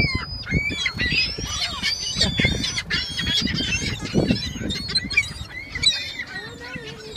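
A flock of birds calling over one another while being fed, many short high-pitched calls overlapping, with a few low thumps among them.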